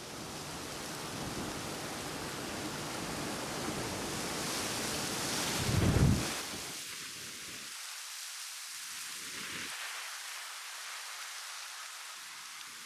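Wind noise with a steady rushing hiss and a strong low gust rumble about six seconds in, after which the sound turns thinner and hissier.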